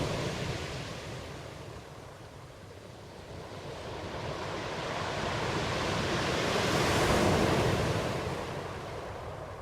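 Ocean surf: one wave fades out, then the next swells to a peak about seven seconds in and washes back out.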